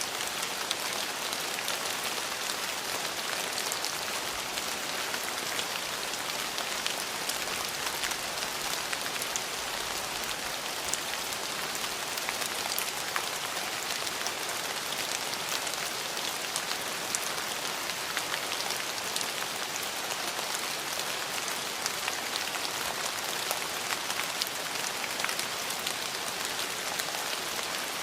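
Steady rain falling on surfaces, an even hiss with many small drop ticks scattered through it.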